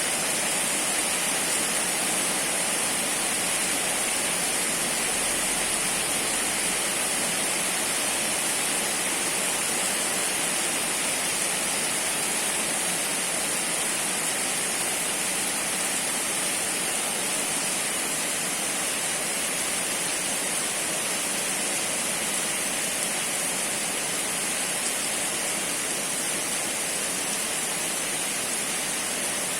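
Steady downpour of rain, an even rushing hiss that does not change.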